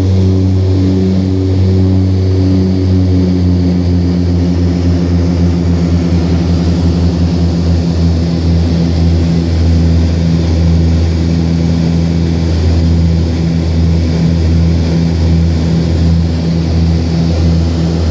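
Let L-410 twin turboprop running at power, with a steady, loud propeller drone. For the first few seconds the two propellers beat against each other, then they settle into a more even hum.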